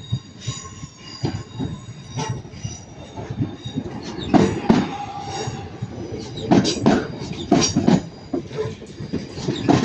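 Class 323 electric multiple units arriving, wheels squealing against the rails. Sharp knocks come in close pairs as the wheels pass over the track, heavier from about four seconds in.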